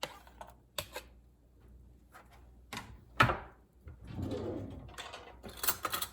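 Kitchen clatter: several separate knocks against a cooking pot as diced onion and jalapeño go in, the loudest about three seconds in, then busier clattering near the end.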